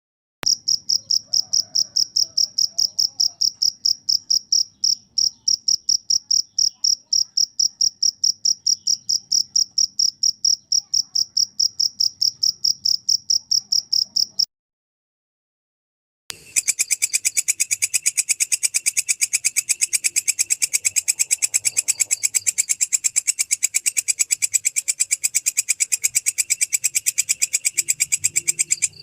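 A field cricket chirping in a steady train of about four pure, high pulses a second, which stops about halfway through. After a short silence a belalang kecek takes over with a harsher, hissier pulsing call at a similar steady rate.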